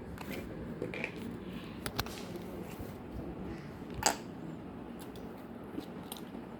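Slime being handled and squeezed, giving a few small pops and clicks over a faint background, the sharpest pop about four seconds in.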